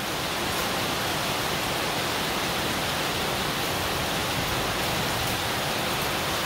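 Heavy rain falling steadily onto flooded paving, an even unbroken hiss.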